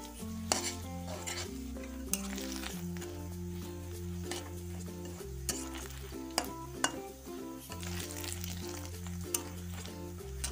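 Food sizzling in hot oil in a steel wok while a metal spatula stirs it, scraping and knocking against the pan now and then. Background music with a stepping bass line plays under it.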